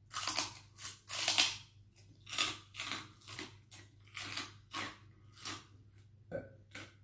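Crunchy chewing close to the microphone: crisp chicharon (fried pork rinds) crackling in irregular bites, about one or two a second.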